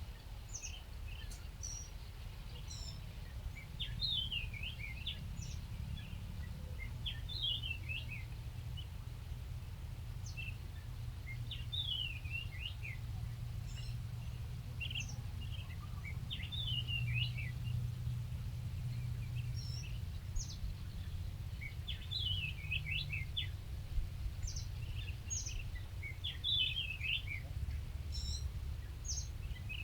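A small songbird singing short, fast phrases of chirps that drop quickly in pitch, with thin high notes in between. The phrases repeat every two to three seconds over a steady low rumble.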